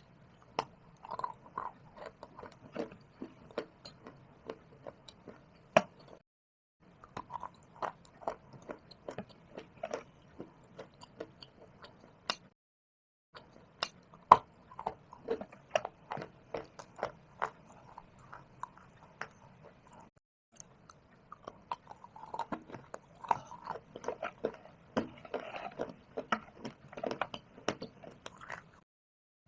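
Close-up crunching and chewing of shale stone and clay: sharp cracking bites followed by gritty grinding between the teeth. It is broken by three short dead-silent gaps where the recording is cut, about 6, 12 and 20 seconds in.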